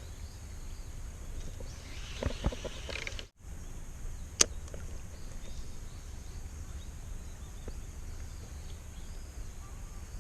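Steady low wind rumble on the microphone, with a few faint clicks and knocks about two to three seconds in and one sharp click a little after four seconds. The sound cuts out completely for a moment just after three seconds.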